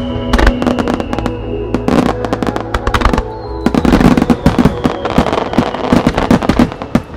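Starmine fireworks barrage: many shell bursts bang in rapid succession, thickening toward a climax, over music from the show's loudspeakers. The bangs stop near the end.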